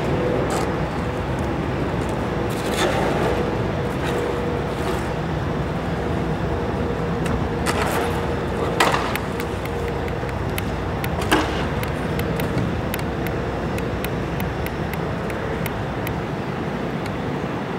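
Steady vehicle and road noise with a faint constant hum. A few short knocks come about halfway through, and a run of faint quick ticks follows in the second half.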